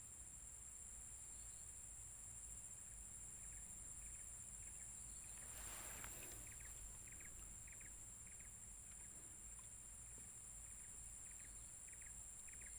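Faint outdoor ambience: a steady high-pitched insect drone, with scattered short chirps and a brief soft rustle about six seconds in.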